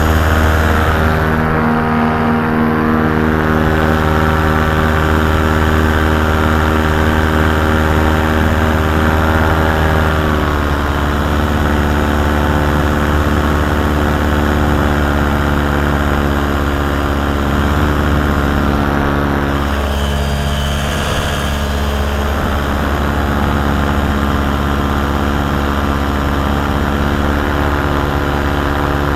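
Paramotor engine and propeller running steadily in flight, its pitch dropping slightly about ten seconds in.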